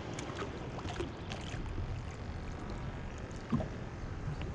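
Small fishing boat on the water: a steady low rumble and water noise, with scattered light ticks.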